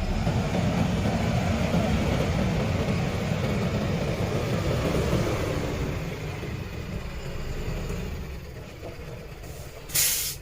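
Heavy truck's engine running with a loud low rumble that eases off after about six seconds, then a short air-brake hiss near the end.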